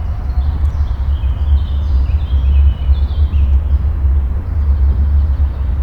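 Birds chirping over a steady low rumble, with no engine note standing out.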